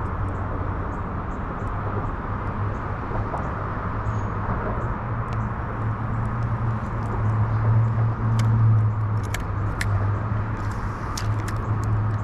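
Steady low drone of road traffic under a constant hiss, swelling a little about eight seconds in, with a few faint clicks.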